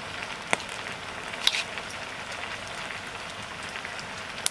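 Noodles sizzling in a wok over a wood fire, a steady hiss, with three short sharp clicks: about half a second in, about a second and a half in, and at the end.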